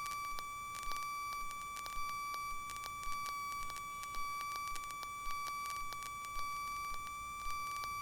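Steady high-pitched electrical whine with a short click about once a second, heard on the Cessna 172's intercom audio feed rather than the engine itself.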